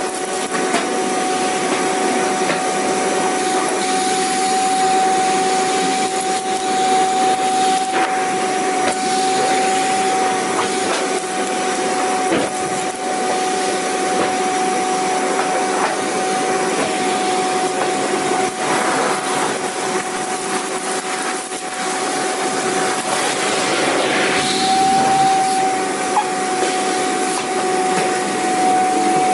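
Vacuum cleaner running continuously: a steady rushing of air with a constant high motor whine.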